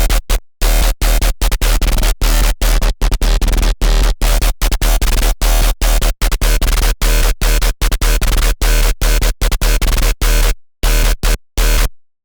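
Serum wavetable synthesizer patch, built from an AI-generated image, played as a harsh, noisy dubstep-style sound with a deep sub-bass in rapid chopped notes. It cuts off abruptly just before the end.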